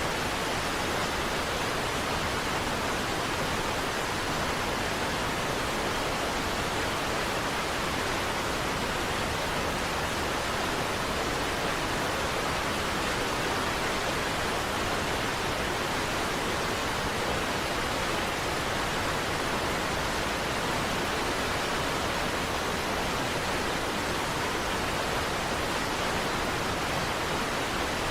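Niagara Falls pouring: a steady, even rush of falling water that does not change.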